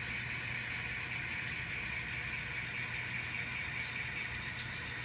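Model railroad diesel locomotive running steadily with its train down a siding: an even engine drone with a fast, regular ticking over it.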